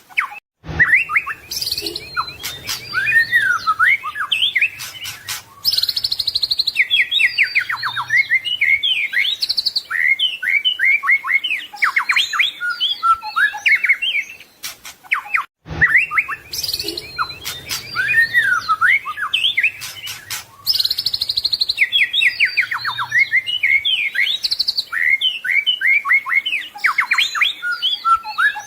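White-rumped shama (murai batu) singing a dense, fast stream of varied whistles, chirps and trills, a song full of mimicked phrases. The same passage of about 15 seconds plays twice, each time after a brief silent break, once about half a second in and again about halfway through.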